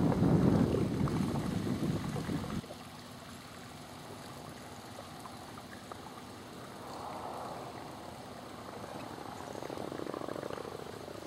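Wind buffeting the microphone, a low rumble that cuts off suddenly about two and a half seconds in, followed by faint steady background noise that swells softly twice.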